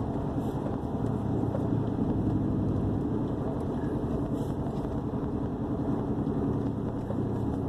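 Vehicle engine and exhaust droning steadily with road noise while driving, heard from inside the cab. The exhaust is a little loud and still waiting to be fixed.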